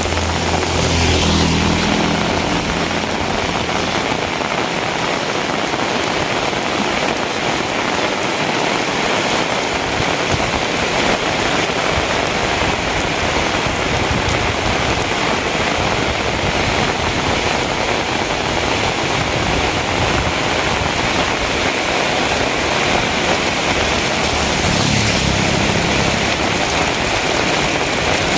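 Heavy rain falling steadily in an even hiss. A motor vehicle's engine rumbles past twice, once near the start and again about 25 seconds in.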